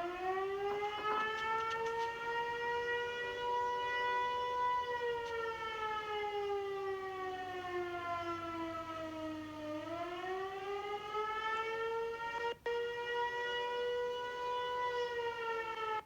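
Loud outdoor tornado warning siren wailing, sounding a tornado warning: its pitch rises, holds for a few seconds, slowly falls, then rises again about ten seconds in.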